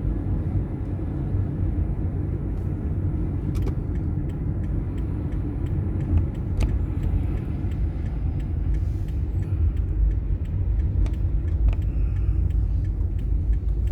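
Car driving, heard from inside the cabin: a steady low rumble of engine and road noise, with a few faint scattered clicks.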